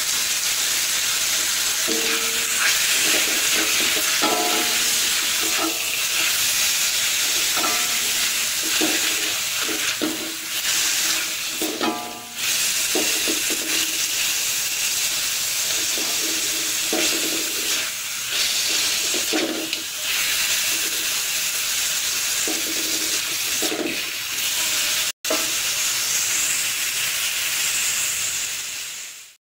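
Mackerel in chili sambal with basil sizzling in a wok, with steady frying hiss, while a spatula stirs and turns it.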